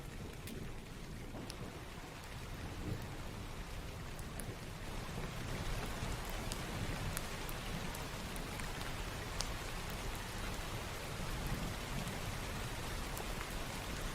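Steady rain falling, with scattered single drops ticking sharply over a low rumble. The rain grows louder and hissier about five seconds in.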